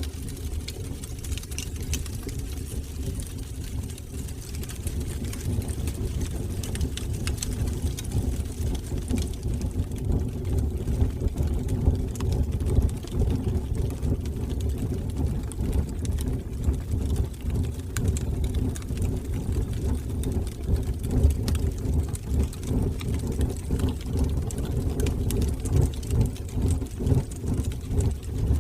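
Fire burning in a fireplace: a steady low rumble of flames with scattered small crackles.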